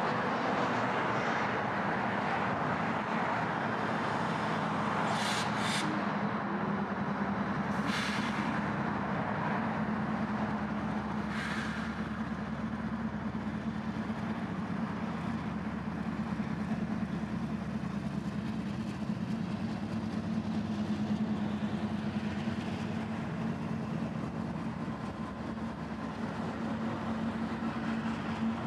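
Freight train of boxcars led by a Union Pacific diesel locomotive running past with a steady rumble of engine and rolling wheels, under a steady low drone. A few brief sharp metallic sounds come in the first twelve seconds.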